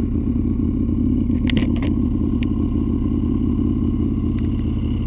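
Ecosse Iconoclast's V-twin engine running steadily, with a few short clicks about one and a half to two and a half seconds in.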